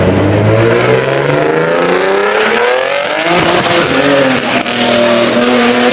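Car engine accelerating hard, its pitch climbing over the first few seconds, then holding high, with a brief drop about four and a half seconds in.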